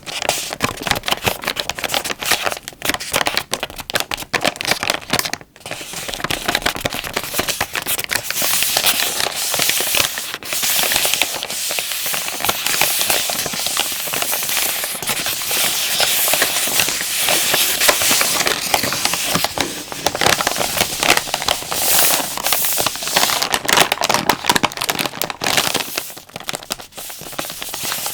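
Plastic wet-wipe pack being crinkled and squeezed by hand, giving a dense, continuous crackling with a brief pause about five seconds in.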